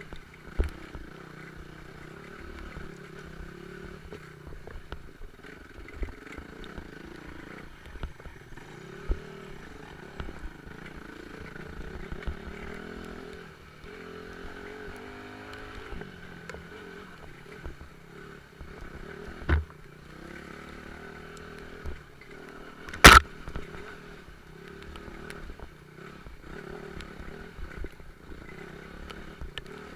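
Off-road motorcycle engine running, its pitch rising and falling with the throttle as it rides over rough ground, with occasional sharp knocks; the loudest knock comes about 23 seconds in.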